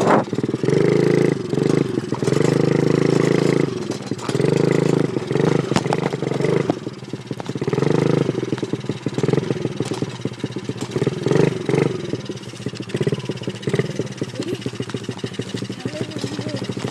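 2003 Honda four-stroke dirt bike engine revving in several bursts, each rising and dropping back, then running at lower revs with a rapid, uneven chatter through the last half.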